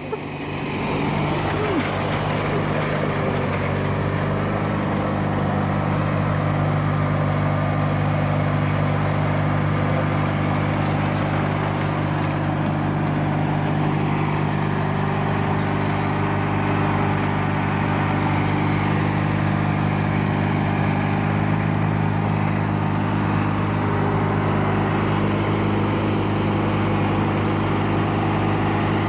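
Riding lawn tractor engine running at full throttle. It climbs over the first second or two, then holds a steady speed.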